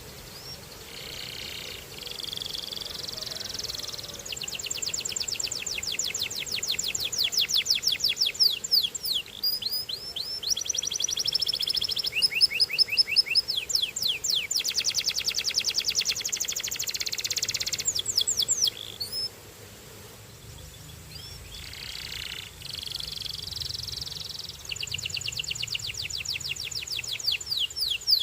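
Belgian canary singing long phrases of fast trills and rapid repeated high notes, with a short pause about two-thirds of the way through before the song starts again.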